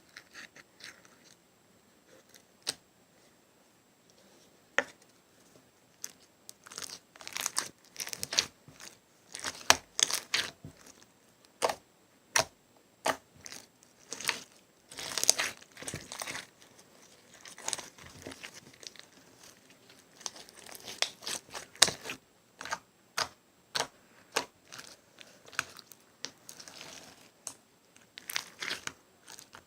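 Slime being squished and stretched by hand close to the microphone, giving irregular sticky clicks and popping crackles. They come sparsely at first and grow denser after a few seconds.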